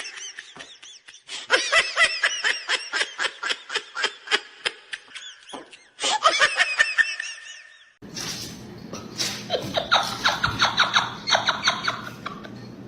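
High-pitched laughter, a rapid run of giggles several a second. From about two-thirds of the way through, the laughter carries on over a low steady background noise.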